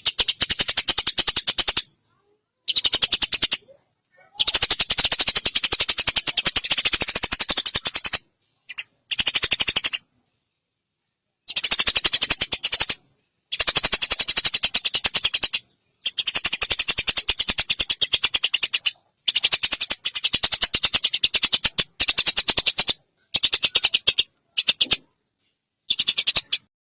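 Eurasian tree sparrows (burung gereja) giving harsh, rapid fighting chatter, a dense stream of high chirps. It comes in bursts of one to four seconds, each cut off by a sudden silence.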